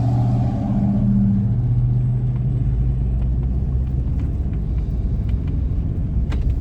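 Car being driven: a steady engine hum in the first couple of seconds gives way to low road rumble, with a sharp click near the end.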